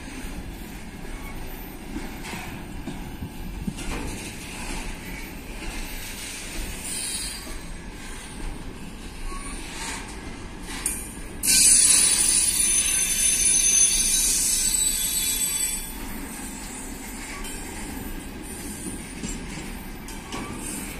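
Container freight train rolling past: a steady rumble of steel wheels on the rails with occasional clacks. About eleven seconds in, a loud, high-pitched metal squeal from the wagons starts suddenly, holds for about four seconds, then drops away.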